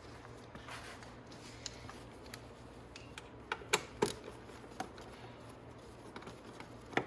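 Scattered clicks and knocks of hand tools and plastic body panels being handled as a motorcycle's fairing is unbolted. The sharpest knocks come in a cluster about halfway through and again near the end.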